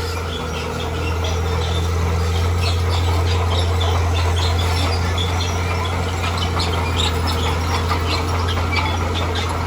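Bulldozer's diesel engine running steadily, growing a little louder about a second in, with a scatter of short high chirps or squeaks over it.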